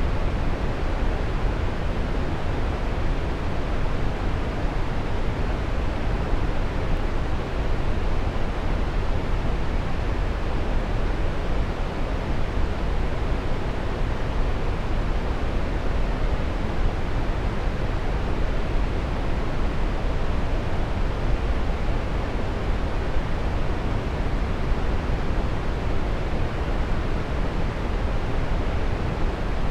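Waterfall: a steady, even rush of falling water, deepest in the low end, with no changes or separate splashes.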